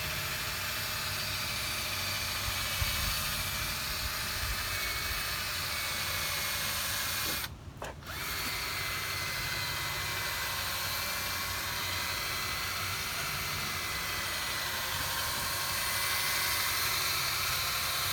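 Cordless drill spinning a polishing pad with compound against a plastic headlight lens, a steady motor whine that stops briefly near the middle and starts again. It runs a little slow, on a battery about ten years old that the owner judges no good.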